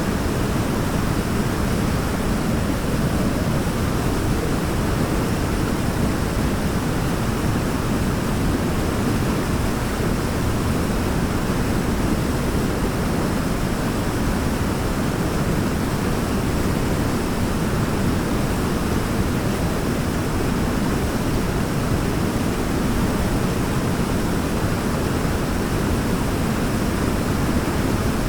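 Waterfall: water falling and rushing steadily in an even, unbroken noise, heaviest in the low range.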